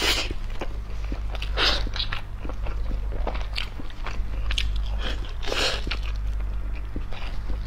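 Close-miked mouth sounds of a person eating a large steamed bun (baozi): bites and wet chewing and smacking that come and go irregularly, over a steady low electrical hum.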